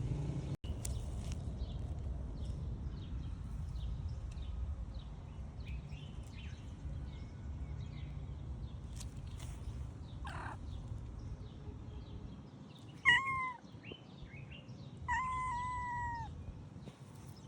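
A cat meowing twice near the end, a short meow and then a longer one that falls slightly in pitch, over a steady low rumble.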